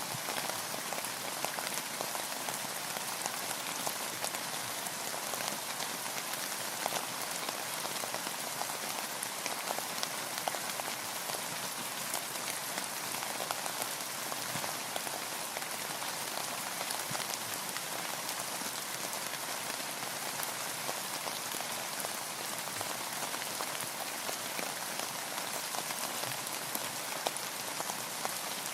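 Steady rain: an even hiss dotted with many separate drop impacts, unchanging throughout.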